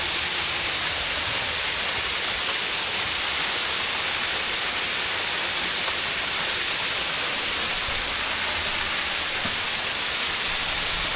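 Steady rushing hiss of falling water from a waterfall, an even, unbroken noise that holds at the same level throughout.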